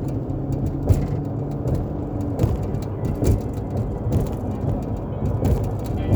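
Steady low rumble of a vehicle's engine and road noise while driving, heard from inside, with scattered light knocks and rattles.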